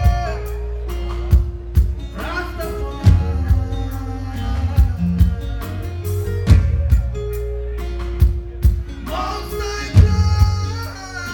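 Live reggae band playing a song intro: heavy bass and drum hits under sustained chords, with a voice singing gliding phrases at times.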